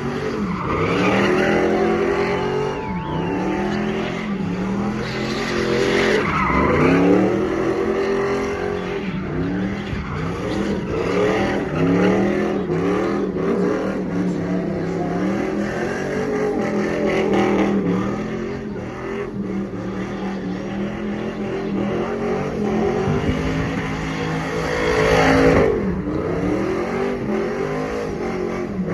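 Squatted GMC pickup truck's engine revving hard over and over during a burnout, its pitch climbing and dropping every second or two, with tires spinning and squealing on the pavement.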